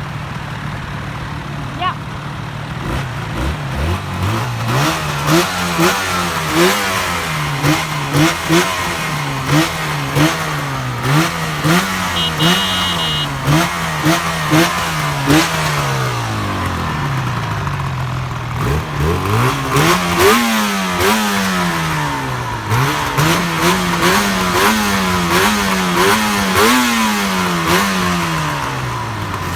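Yamaha RZV500R's two-stroke V4 engine, breathing through unrestricted RD500 expansion-chamber pipes, revved again and again: quick blips rising and falling about once a second, then bigger, longer revs in the second half, settling back toward idle between them.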